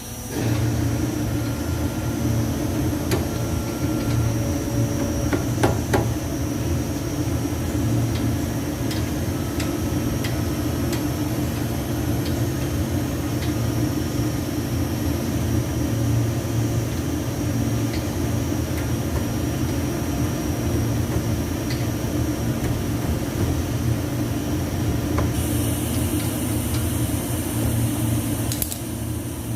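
A steady, loud mechanical hum that keeps going, with scattered light clicks and knocks over it.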